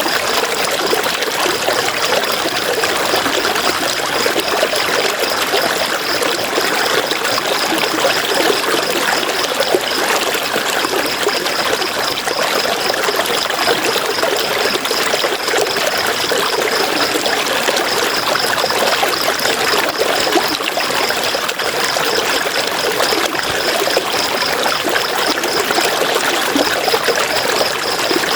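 River water running steadily over rocks, an even rushing and trickling. A thin, high, rapidly pulsing trill sounds above it and breaks off twice.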